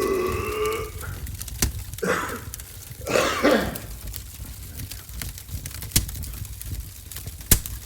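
A man's drawn-out burp fading out about a second in, then two rough throat-clearing sounds about two and three seconds in. Scattered sharp clicks follow, the loudest near the end.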